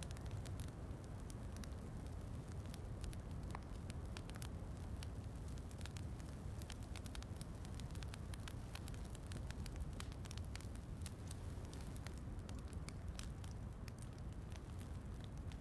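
Wood fire crackling in a fireplace, with many small sharp pops scattered irregularly over a steady low rumble.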